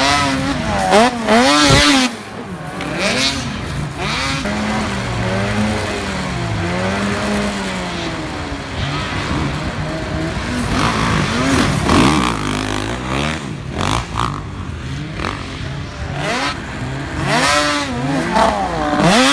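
Racing snow-machine engines lapping a track, revving up and down again and again as they throttle through turns and jumps, with at times two machines heard at once.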